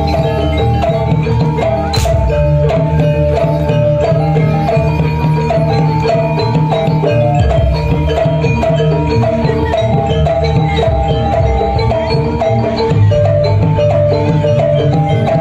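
Jaranan music played on a gamelan-style ensemble: metallophones hammer out a quick repeating melody over steady drumming.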